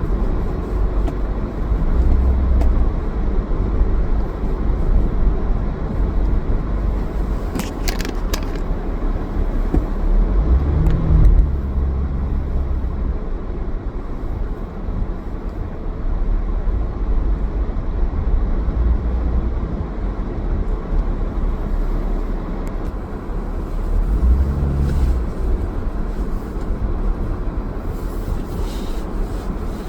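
Car driving: steady engine and road rumble, swelling now and then, with a brief higher-pitched sound about eight seconds in.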